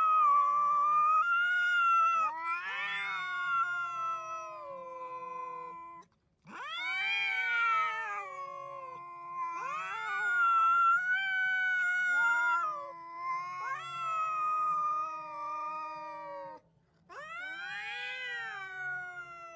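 A cat yowling in long, wavering caterwauls that swoop up and down in pitch, in three long stretches with short pauses between them. It is the agitated yowl of a cat worked up at its own reflection in a mirror.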